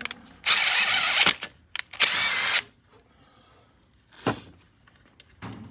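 Aerosol cleaner spraying out an engine part in two hissing bursts, the first just under a second long, the second shorter. A single knock follows a couple of seconds later.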